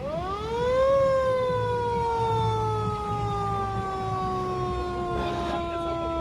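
Fire truck siren winding up quickly in the first second, then slowly winding down in pitch, over a low engine rumble. A brief hiss cuts in about five seconds in.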